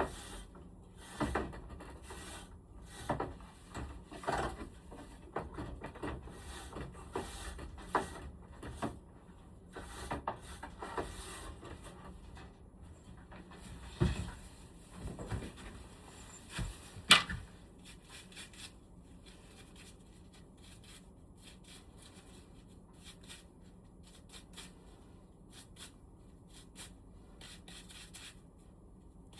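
Irregular rubbing, scraping and small knocks of air-conditioner parts being handled and worked on during cleaning. Sharp knocks about 14 and 17 seconds in, then it turns quiet for the last third.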